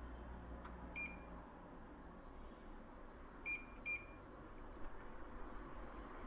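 Electronic beeps from a kitchen appliance's control panel: one short beep about a second in, then two quick beeps about halfway through.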